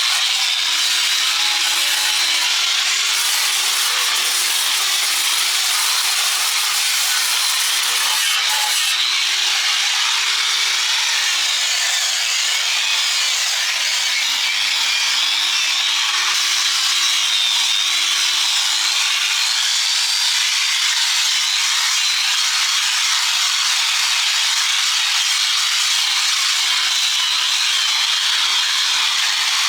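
Handheld power grinder working on steel: a steady, continuous grinding hiss, with the motor's pitch wavering slightly as the load changes.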